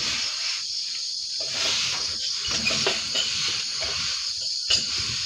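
Steady high-pitched insect chorus, such as crickets, with irregular knocks and clatter underneath and one sharp click near the end.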